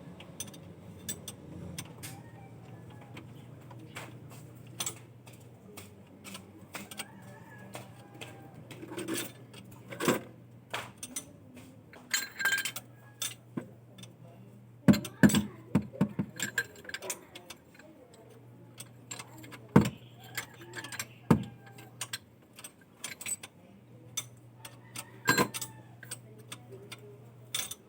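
Irregular clicks and metallic clinks, a few of them loud and in quick clusters, over a faint steady low hum that comes and goes.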